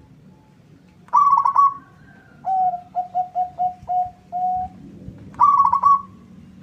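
Zebra dove (perkutut) cooing: a loud trilled note about a second in, a run of about six short, lower coos, then another loud trilled note near the end.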